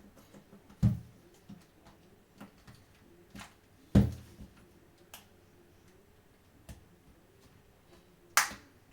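Scattered clicks and light knocks of hard plastic and tools being handled on a work surface, with three louder knocks: about a second in, near the middle and near the end.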